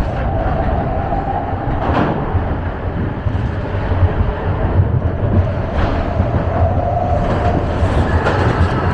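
Matterhorn Bobsleds roller-coaster sled running along its track: a steady, loud rumble with wheel clatter and a wavering whine, and a few clicks and knocks.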